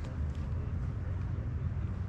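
Steady low rumble of a vehicle driving, engine and road noise, with a few faint light clicks.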